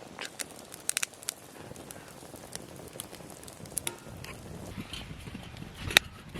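Wood fire crackling, with a few scattered sharp pops over a low steady background.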